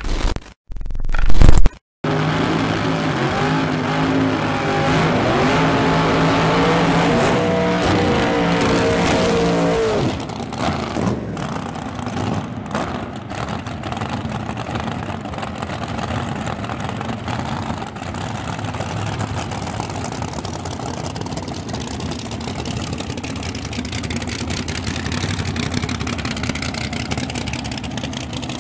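Two drag-race cars accelerating hard down the strip, engine pitch climbing in steps as they shift through the gears for about eight seconds, then falling away into a steadier, quieter background noise of engines and track.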